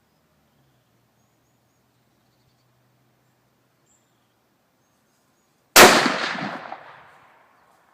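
A single .300 Winchester Magnum rifle shot from a Mauser M97 straight-pull bolt-action rifle, about three-quarters of the way through, its report echoing away over about a second and a half. This PPU Prvi Partizan round fired rather than misfiring.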